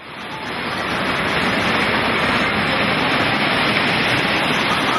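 Steady rushing noise of Atlantic surf and wind on the beach, rising in level over the first second after a brief dropout.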